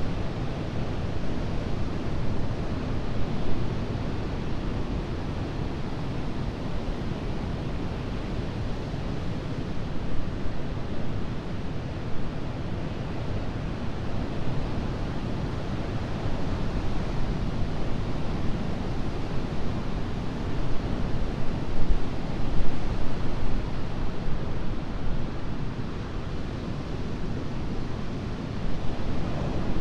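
Ocean surf breaking on a beach: a continuous wash of waves that swells and eases, growing loudest a little past two-thirds of the way through.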